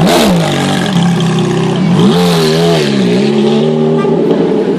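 Ferrari engine revved by the driver: a quick blip right at the start, then a longer, wavering rev about two seconds in that falls back to idle.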